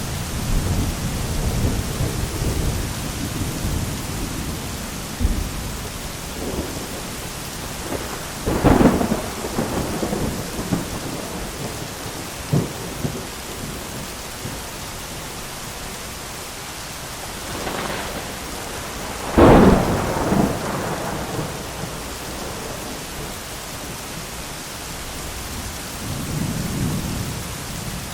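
Thunderstorm: steady heavy rain with rolling thunder, and two sharp lightning cracks, about nine seconds in and about twenty seconds in, the second the loudest, each trailing off into rumbling.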